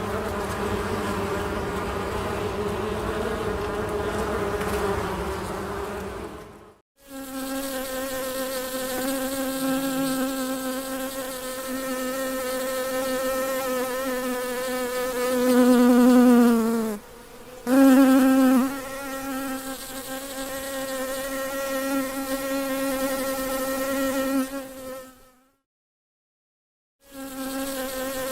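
Honey bee buzzing close by, a steady droning wingbeat hum. Around the middle the pitch sags and the hum swells louder for a few seconds. The buzz cuts out abruptly twice, briefly about a quarter of the way in and for nearly two seconds near the end.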